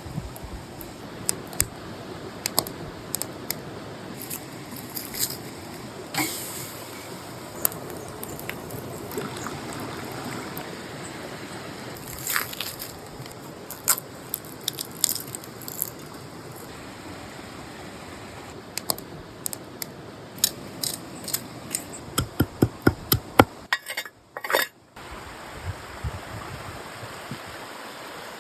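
Wood campfire crackling, with scattered sharp pops and a quick flurry of them near the end, over the steady rush of a forest stream.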